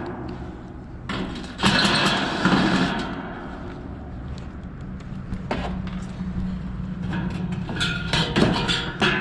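Metal clanks, knocks and scraping from an air-conditioner condenser fan assembly being handled while its hub is checked for play, over a steady low hum. The loudest handling comes in a burst about a second and a half in and in a cluster of clanks near the end.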